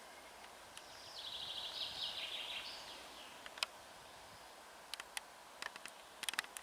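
A songbird sings one fast trill of rapidly repeated high notes about a second in, over a faint steady hiss. A few sharp clicks follow, bunched near the end.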